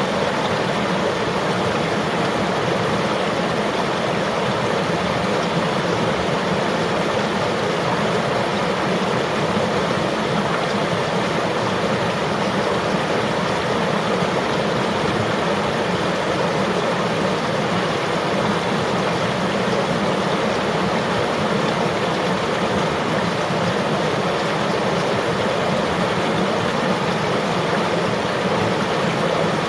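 River water flowing, a steady, even rush without breaks or separate splashes.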